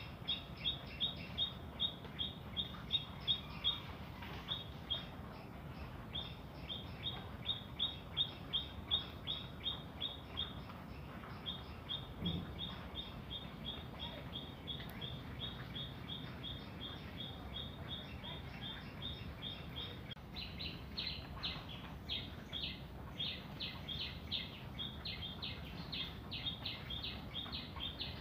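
A small bird chirping over and over, short high chirps about three or four a second in long runs, turning into a busier, more varied string of chirps about two-thirds of the way through. A faint low hum runs underneath.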